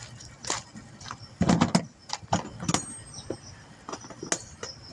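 Irregular knocks and metallic clinks of hand tools being handled and set down, with a short clatter about a second and a half in.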